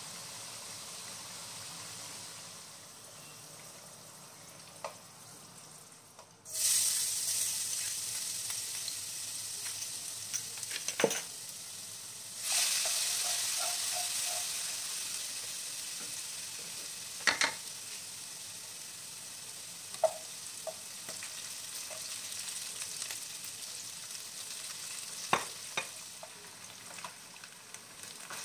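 Hot oil sizzling in a non-stick wok: potato chunks frying at first, then a sudden loud burst of sizzling about six seconds in, and again near twelve seconds, as minced garlic fries, slowly settling to a steady sizzle. A wooden spatula stirring knocks sharply against the wok a few times.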